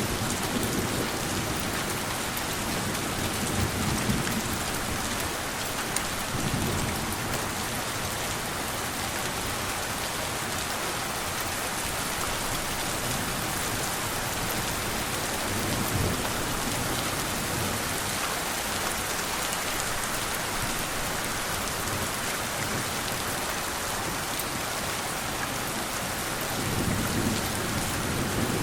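Steady rain falling on a surface, with soft, distant thunder rumbling low several times, most noticeably near the start, around the middle and near the end.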